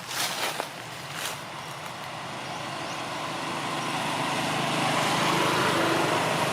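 A motor vehicle approaching, its engine and road noise growing steadily louder over a few seconds, after a few sharp clicks in the first second.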